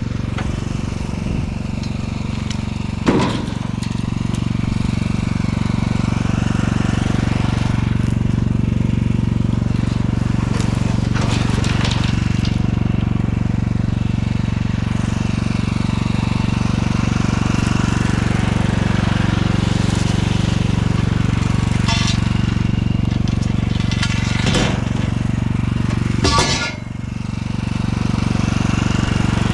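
Tractor engine running steadily under mowing load, with a sharp knock about three seconds in and a few brief clatters later on.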